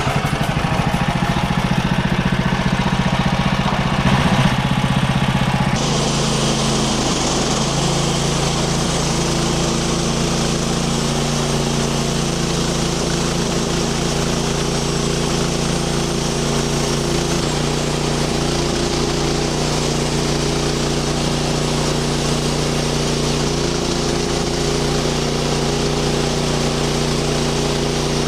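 Engine running steadily under load, with an abrupt change in its sound about six seconds in.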